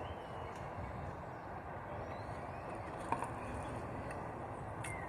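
Steady background hum with a few faint high chirps and a single sharp click about three seconds in.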